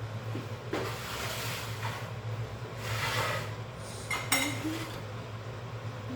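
Dishes and metal cutlery being handled: two stretches of scraping and brushing, then a sharp clink with a brief ring a little after four seconds in, over a steady low hum.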